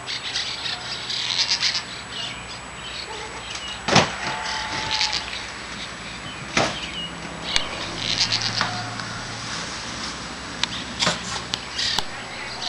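Many small birds chirping in bursts, with wing flutters and a few sharp knocks, the loudest about four seconds in.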